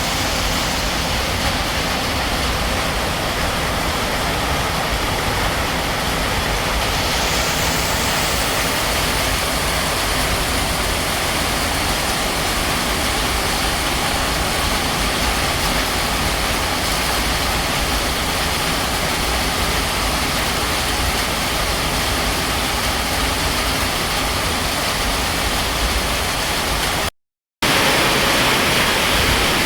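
Heavy tropical rain pouring down in a storm, a steady loud rush with a low rumble. It cuts out completely for a moment near the end.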